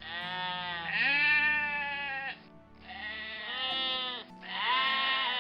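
Goat bleating: three long, wavering bleats, one after another.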